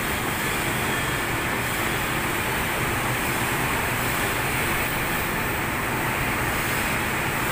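Steady, even rushing noise with a faint low hum under it, unchanging in level.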